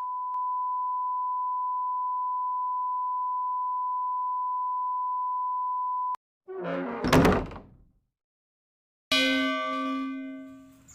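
A steady, even electronic beep tone held for about six seconds, cutting off suddenly. It is followed by a short swoosh-like effect with falling pitch, and after a second's pause a bell-like chime rings out and fades.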